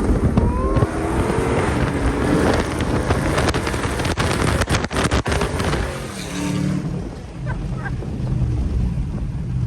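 Car engine revving hard, its pitch climbing in the first second, with heavy wind rushing over the microphone; it eases off about two thirds through.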